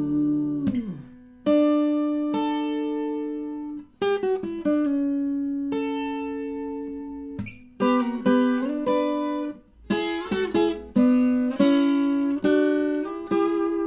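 Viola caipira played solo: plucked notes and chords that ring and die away in short phrases, with brief gaps between them and a quicker run of notes about eight to eleven seconds in.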